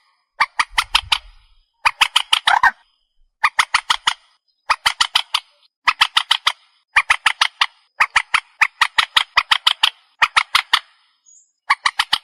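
Trích ré bird calling: rapid series of sharp, harsh notes, about eight to a burst, in bursts roughly a second long repeated with short pauses.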